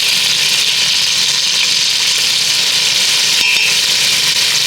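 Garlic sizzling in melted butter and olive oil in a stovetop pot: a steady, loud frying hiss.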